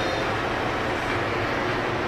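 Steady rumble and hiss of a moving vehicle, with no distinct events.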